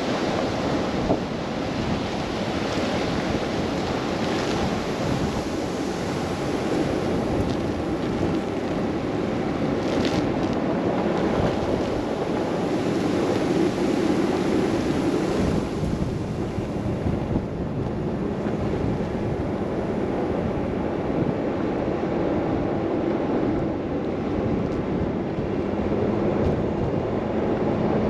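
Steady rush of wind and road noise from a car driving through a snow blizzard, the wind buffeting the microphone.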